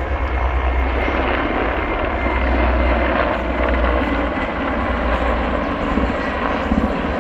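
Mi-8 transport helicopters flying past, a steady loud rumble of rotors and turbine engines with a heavy, pulsing low rotor beat.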